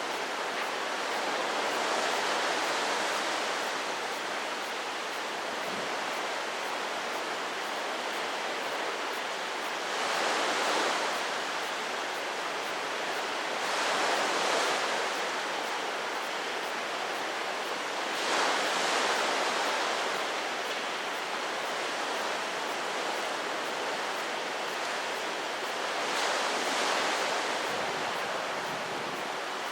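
Steady rushing of strong wind from a passing typhoon, swelling in gusts about five times.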